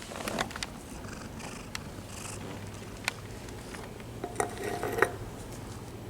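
Cats squaring off in a fight: low cat vocalising with a short burst just after the start, then a brief pitched cat cry a little after four seconds in.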